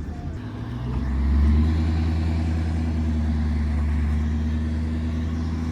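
A car engine running with a deep, steady exhaust drone that swells about a second in and then holds.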